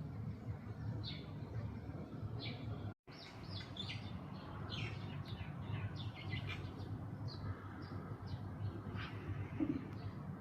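Small birds chirping in short, quick notes over a steady low background hum; the sound cuts out for an instant about three seconds in.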